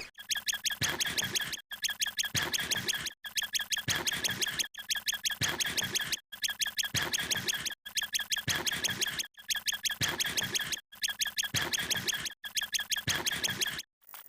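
A short sound effect looped nine times, about one and a half seconds apart, each a rapid run of short high-pitched pulses with a brief gap between repeats.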